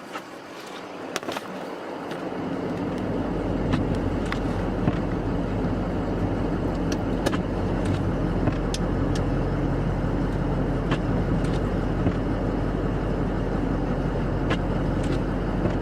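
Plow truck's engine running, building up over the first few seconds and then holding steady, with a few light clicks and knocks.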